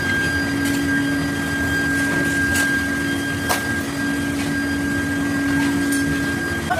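Metalworking machine tool running steadily with a constant hum and a higher whine, with a couple of sharp ticks partway through; the hum drops out near the end.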